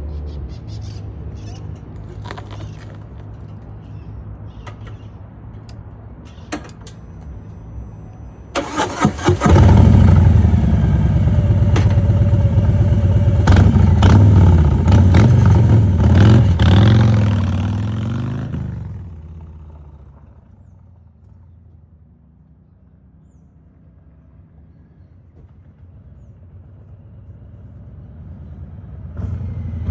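Motorcycle engine idling steadily, then blipped a few times and revved hard for about ten seconds, the pitch rising and falling. The sound then fades down to a low level, and near the end an engine grows loud again.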